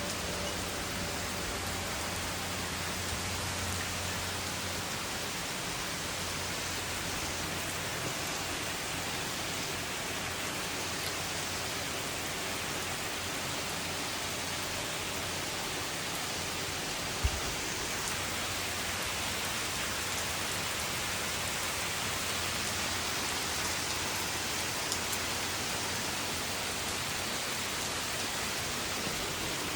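Steady heavy rain falling during a thunderstorm, an even hiss, with one short sharp knock about halfway through.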